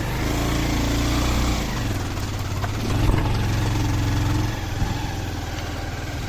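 Motorcycle engine running while riding, its note shifting with throttle: it drops about a second and a half in, picks up again around three seconds, and falls back near the middle.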